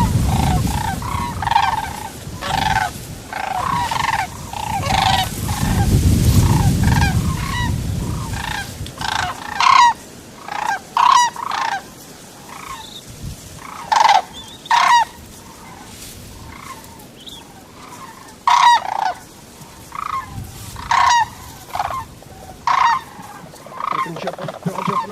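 Geese calling in a steady stream of short, repeated honks. A low wind rumble on the microphone runs under them for the first several seconds.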